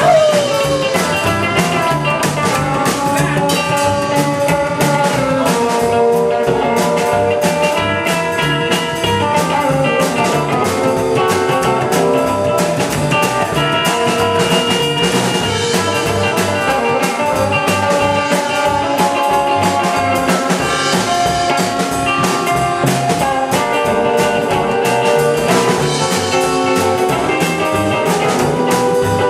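Blues-rock band playing an instrumental break: a drum kit keeps a steady beat under guitar, with held notes and a falling bend at the very start, and no singing.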